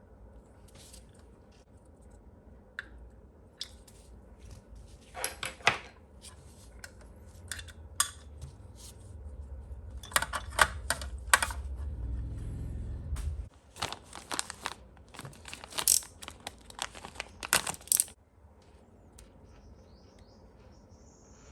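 Small hard parts clicking and clattering as they are handled during model assembly, in irregular clusters of sharp clicks, with a low rumble in the middle that cuts off suddenly.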